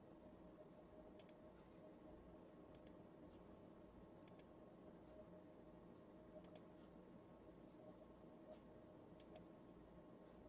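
Faint computer clicks, mostly in close pairs about every one and a half to two seconds, over a low steady hum.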